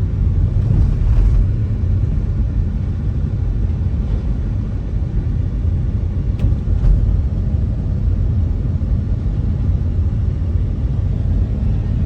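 Steady low rumble of a car driving along the road, engine and tyre noise heard from inside the car, with a faint brief tick about six and a half seconds in.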